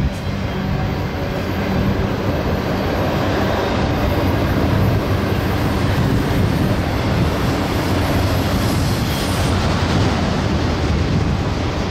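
BNSF double-stack freight train rolling past close by while climbing a steep grade: a steady, loud rumble of wheels on rail with a low drone underneath.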